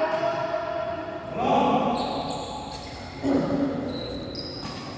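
Badminton game on an indoor court: sharp racket hits on the shuttlecock and short high squeaks of court shoes, with players' voices calling out now and then.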